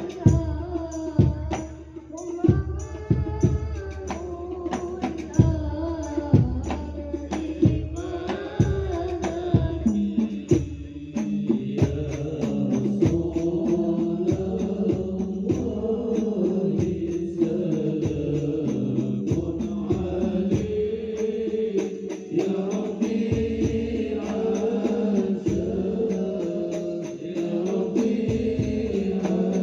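Devotional Islamic chant-like singing led by a male voice over hand-percussion strokes. About twelve seconds in, the strokes thin out and voices hold long notes together.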